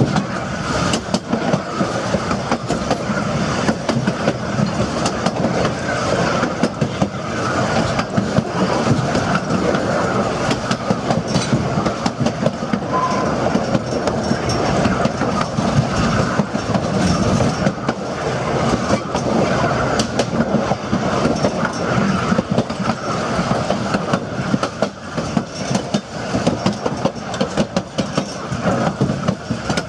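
Narrow-gauge railroad passenger cars rolling along the track: a steady rumble of wheels on rail, with a dense clatter of clicks from the wheels and rail joints.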